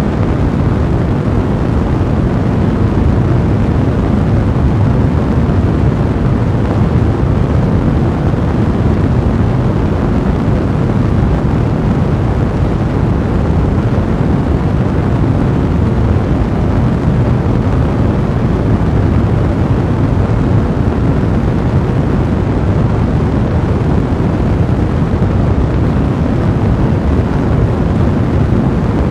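A fire blazing steadily: a dense, even, low noise that does not change, with no separate crackles or pops standing out.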